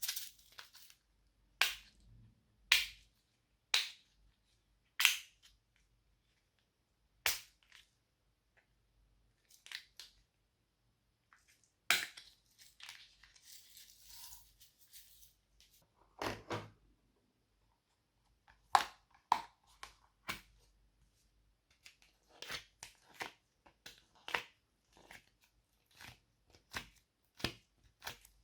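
Slime being squeezed and poked by hand, giving a string of sharp pops and clicks at irregular intervals, with a short spell of softer crackling about halfway through.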